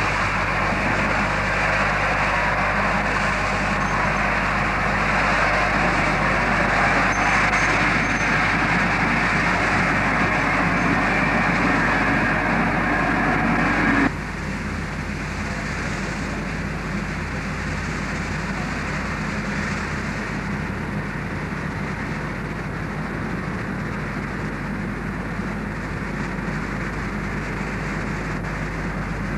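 Mikado steam locomotive with its train: a steady hiss and rumble with no clear beat, which drops suddenly to a quieter level about halfway through.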